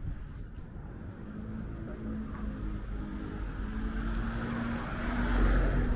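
A motor vehicle's engine and tyres coming closer and passing by, growing louder to a peak near the end.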